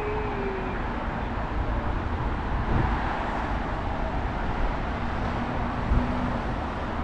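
Outdoor roadside ambience: wind buffeting the microphone in irregular low thumps over the steady noise of passing road traffic.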